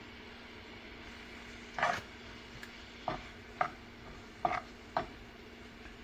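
Cooking utensil stirring spices into a pan, knocking and scraping against it five times, over a steady low hum.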